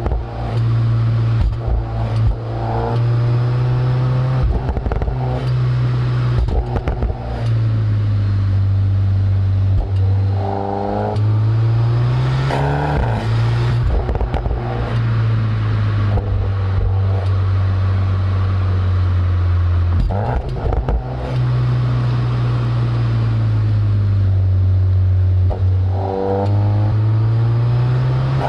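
Volkswagen Golf R Mk7.5's turbocharged 2.0-litre four-cylinder heard through an Akrapovic exhaust, recorded right at the tailpipes. It pulls hard and revs up several times, with steadier cruising in between, and short sharp cracks and pops from the exhaust at shifts and off-throttle.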